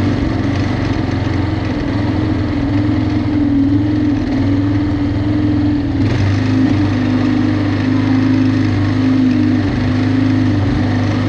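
Riding lawn mower's small engine running steadily, its pitch wavering slightly, with a small shift about six seconds in.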